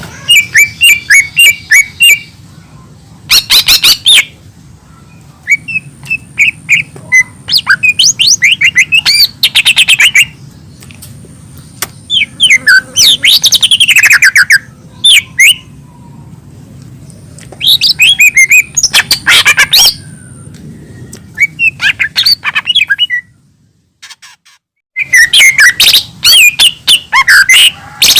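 Cucak ijo mini (a small green leafbird) singing loud, rapid bursts of varied chirps, trills and whistles, each burst a second or two long with short pauses between, cutting out briefly a little before the end.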